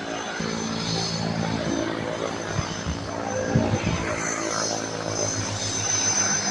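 Propeller aircraft engine running steadily.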